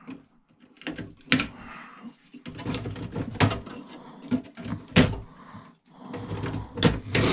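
Irregular clicks and clunks of a cash register's parts being handled and pulled apart, several sharp knocks standing out.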